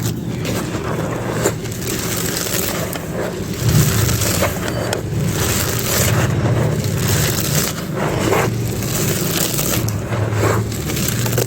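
Fully dry clay pot pieces being crushed and crumbled: a continuous gritty crunching with repeated sharper crunches.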